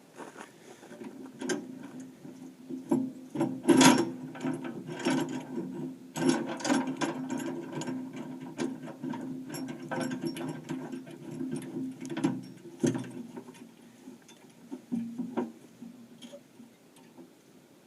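Metal clicking and clanking, many sharp knocks with the loudest about four seconds in, as a chain and chain binder are worked to fasten a homemade steel plow to a tractor bucket. A steady low hum runs beneath and fades out about two-thirds of the way through.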